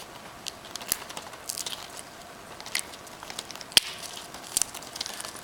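Cockatiels biting and cracking a peanut shell with their beaks: scattered sharp clicks and crackles, irregular, the loudest nearly four seconds in.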